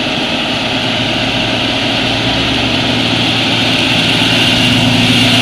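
Heavy tanker truck's diesel engine running steadily under load as it climbs a steep grade, growing gradually louder as it comes closer.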